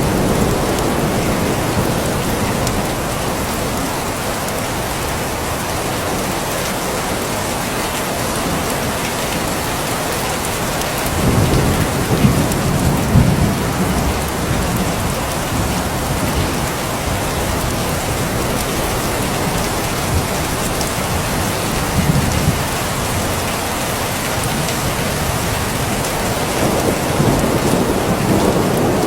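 Steady rain falling, with rolls of thunder rumbling low under it, the strongest about eleven seconds in and lasting a few seconds, a shorter one later and another near the end.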